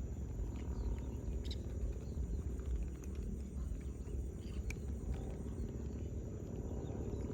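Outdoor lakeside ambience: a steady low rumble with faint, short bird chirps and a few light clicks.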